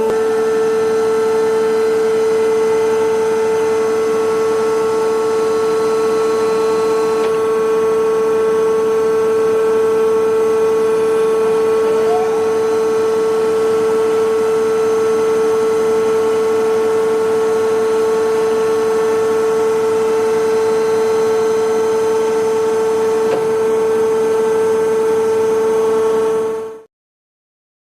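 Innocenti Mitsubishi FAF-140/95 CNC milling and boring machine running under power: a loud, steady whine of one pitch that stops abruptly near the end.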